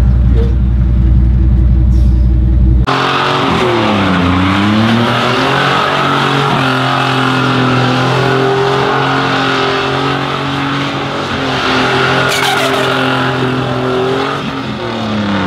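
Pickup truck engine at a truck show: a deep rumble for about three seconds, then it is suddenly revved hard. The revs dip and climb back once, then hold high and steady for about ten seconds over a hiss typical of spinning, squealing tires, as in a burnout.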